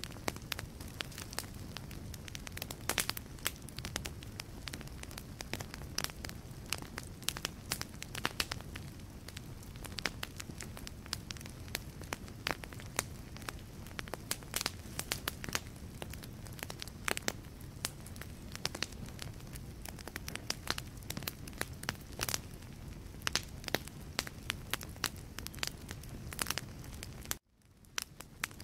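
Wood logs burning in a fireplace, crackling and popping irregularly over a low steady rumble of flame. Near the end the sound cuts out for about a second, then fades back in.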